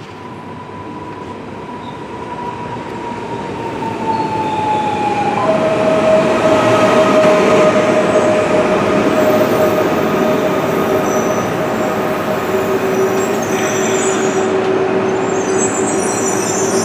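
A train running at the station platform, growing louder over the first six seconds and then holding steady. Over the rumble there is a whine that falls in pitch over the first five seconds, then several steady whining tones, with faint high squealing near the end.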